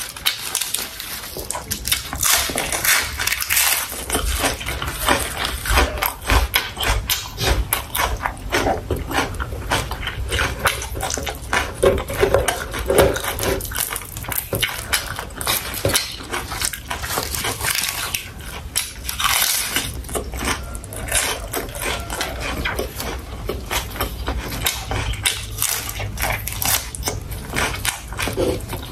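Close-miked chewing and mouth sounds of someone eating sausage with rice: a continuous run of irregular wet clicks and smacks.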